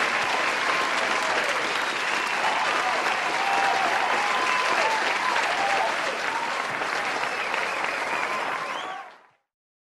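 Concert audience applauding, with cheering voices rising above the clapping. It stops abruptly about nine seconds in.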